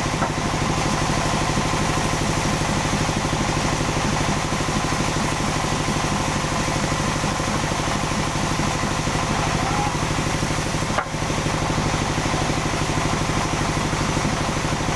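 Sawmill engine running steadily with an even mechanical drone, dipping briefly about eleven seconds in.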